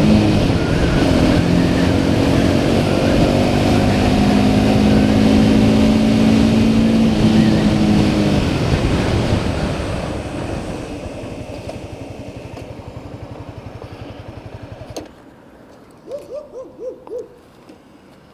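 Honda CBR300R's single-cylinder engine running under way, with heavy wind noise, then dying away as the bike slows. About fifteen seconds in the engine sound cuts off abruptly, followed by a few short hooting tones.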